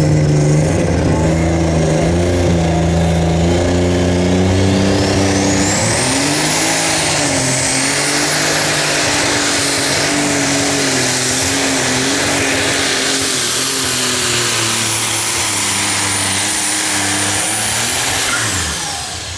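Unlimited super stock pulling tractor's turbocharged engine running hard under load down the track, its pitch wavering. A high turbo whistle climbs a few seconds in and holds, then falls away near the end as the engine backs off.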